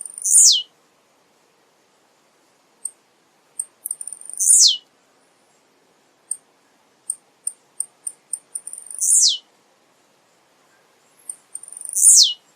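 Male blue-black grassquit (tiziu) singing: a run of short high ticks that come faster and faster, then a loud note sweeping steeply down in pitch, repeated four times about every four seconds.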